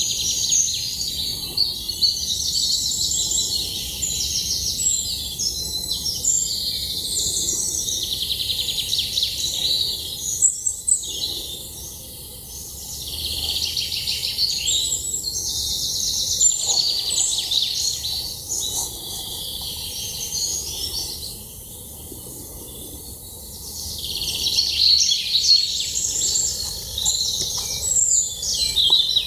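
Wild birds singing together in a dense chorus of high chirps and trills, which thins out briefly twice before filling in again.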